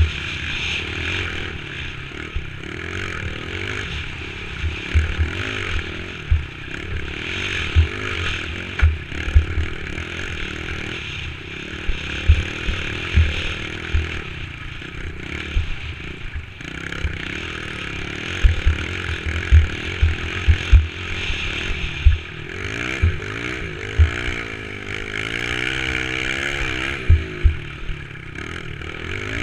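Dirt bike engine running while riding a rough trail, with frequent short low thumps and clattering from the bumps. The engine pitch rises and falls repeatedly near the end as the throttle is worked.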